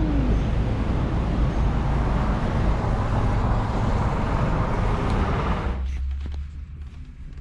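Engine and road noise of a lorry driving, heard from inside the cab as a steady rumble. Near the end the noise cuts off suddenly, leaving a low hum and a few faint clicks.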